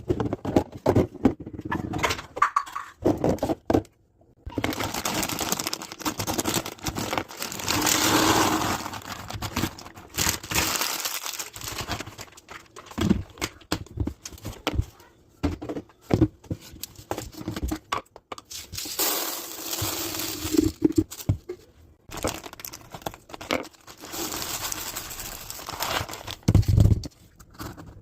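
Objects being handled: irregular rustling, crinkling and scraping with scattered short knocks.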